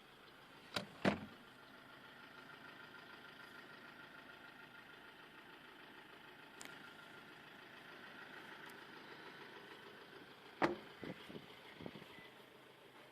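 Rear seat backs of a car being folded down. There are two sharp clunks about a second in, then another clunk followed by a few lighter knocks near the end, over a faint steady hum.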